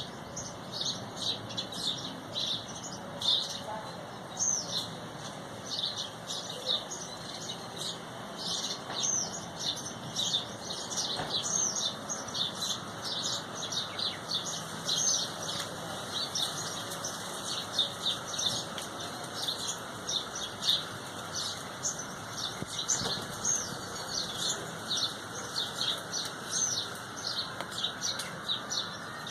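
A flock of small birds chirping continuously, many short high chirps overlapping several times a second.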